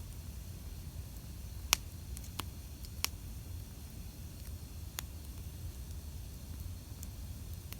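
Wood campfire crackling: scattered sharp pops and snaps over a steady low rumble from the flames, with the loudest pop about a second and a half in.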